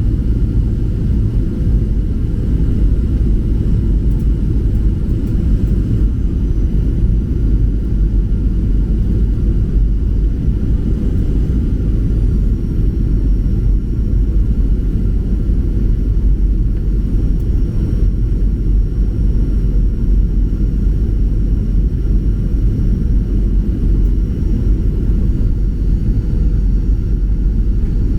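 Steady low rumble of a Boeing 737-800 heard from inside the cabin: CFM56 jet engine and airflow noise. A faint high whine joins in about twelve seconds in.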